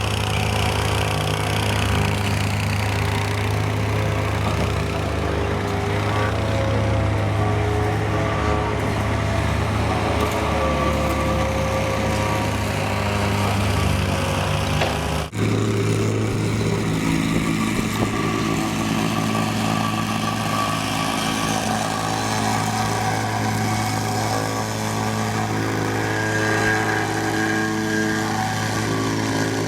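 Engine of site machinery running steadily, with a strong low hum. About halfway through, the sound cuts out for an instant and comes back at a slightly different pitch.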